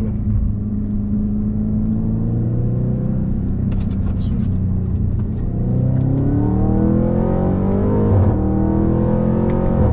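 Audi RS5 B8's naturally aspirated 4.2-litre V8 through an Akrapovič exhaust, pulling at steady revs for a few seconds and then accelerating hard, its pitch rising steeply. There is a brief break at a gearshift about eight seconds in, and then it pulls on.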